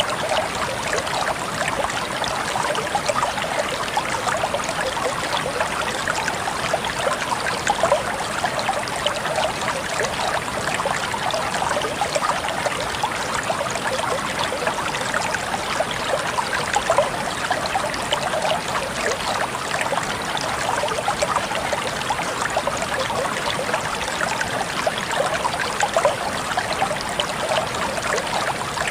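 Water flowing steadily over stones in a shallow stream, with an even splashing babble and no pauses.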